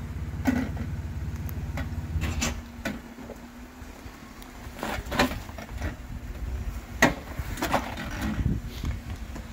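Off-road 4x4 engine running at low revs on a slow rocky trail, with several sharp knocks and clunks. The engine note drops away about a third of the way in and picks up again near the middle.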